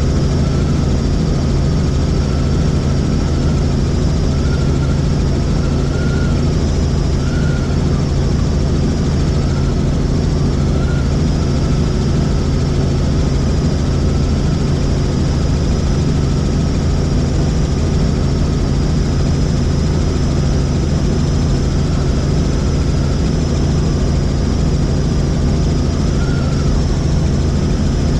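Helicopter in flight: a steady, loud drone of rotor and turbine, with a thin high whine that wavers slightly in pitch.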